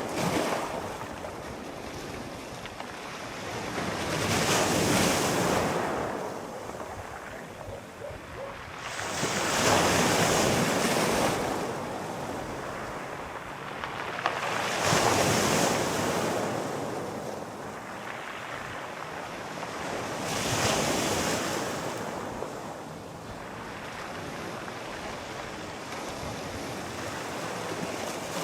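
Sea waves breaking and washing ashore, each surge swelling and fading about every five to six seconds.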